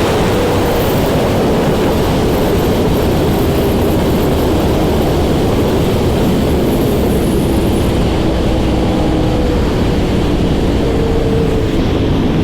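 Yamaha R1 inline-four engine running at road speed under heavy wind rush on the riding microphone. About two-thirds of the way through the hiss eases and the engine's steady note comes through more clearly.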